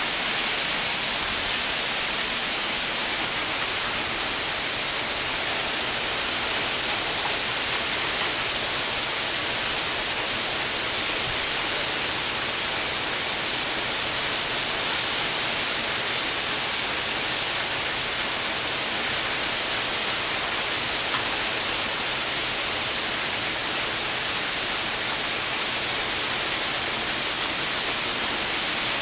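Heavy hurricane rain falling steadily, an even hiss with no let-up.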